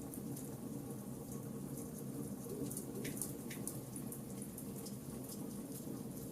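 Charcoal campfire crackling: many irregular small snaps and pops, with two sharper pops about three seconds in, over the steady low noise of the burning.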